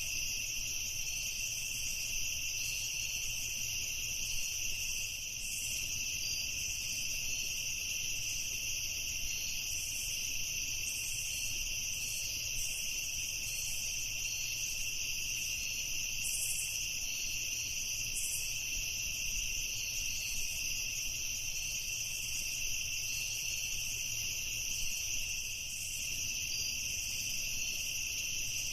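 Crickets chirping in a dense chorus: a steady, unbroken high-pitched trill.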